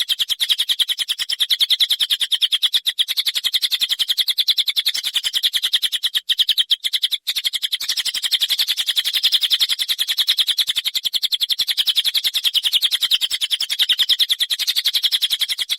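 Songbird giving a long, harsh chattering rasp of very fast repeated high notes, unbroken except for two short breaks about six and seven seconds in.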